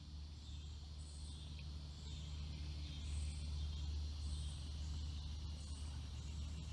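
Insects calling: a steady high-pitched chorus, with a short, very high buzzy pulse repeating about once a second, over a low, steady rumble.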